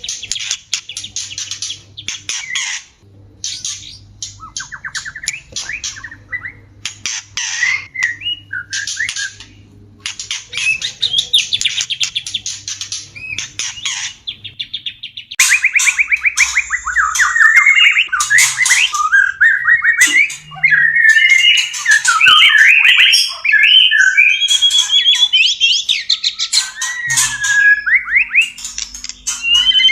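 White-rumped shamas (murai batu) calling in breeding condition. Harsh, scratchy chatter comes in short bursts at first; about halfway through, louder rapid whistled song phrases take over, sliding up and down in pitch.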